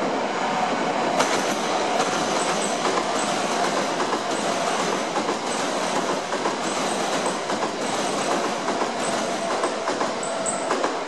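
E3 series Shinkansen train passing through a station at speed: a loud, steady rush and rumble of wheels on rails with a clickety-clack over the rail joints. Brief high squeaks sound now and then.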